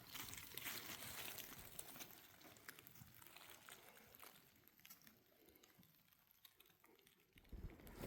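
Near silence: a faint hiss with scattered light ticks, growing quieter toward the end.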